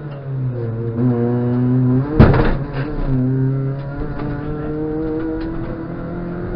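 Rally car engine heard from inside the cabin. Its revs drop at the start, hold, then slowly build again. There is one loud, sharp thump about two seconds in.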